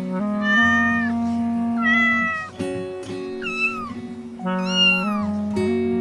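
A cat meowing four times, each meow about half a second long, the last two sliding down in pitch, over background music.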